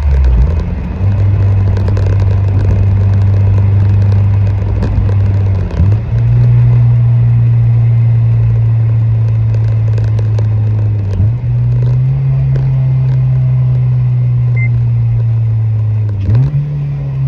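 Honda Civic Si (FA5) engine running through a newly fitted full aftermarket exhaust (headers, test pipe, mid pipe and slip-on), held at raised revs in four long, steady stretches with a brief dip in revs between each.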